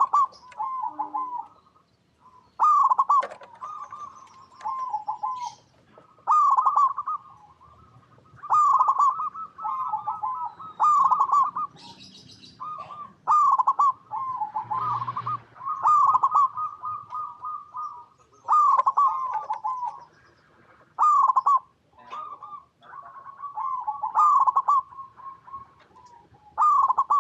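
Zebra doves (perkutut) cooing: repeated phrases of quick, trilled coos, each opening with a loud note, coming every two to three seconds and at times overlapping one another.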